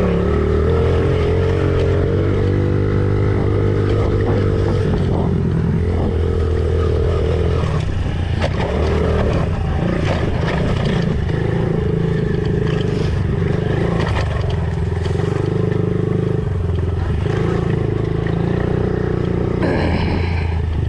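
Honda CRF50 pit bike's small four-stroke single-cylinder engine running continuously through a lap, its pitch rising and falling as the rider rolls on and off the throttle. It eases off briefly about eight seconds in and again near sixteen, with a few scattered knocks from the bike over the track.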